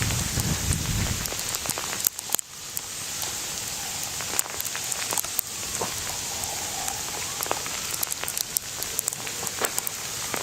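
Sleet falling steadily: a constant hiss of ice pellets with many sharp individual ticks as they strike surfaces. A low rumble fades out in the first second or so.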